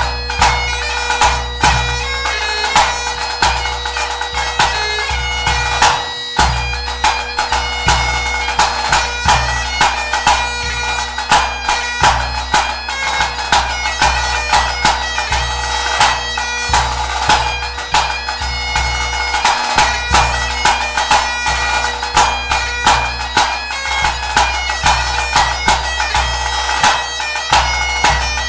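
Great Highland bagpipe playing a tune over its steady drones, with a bass drum beating a regular rhythm beneath it. Both break off briefly about six seconds in, then carry on.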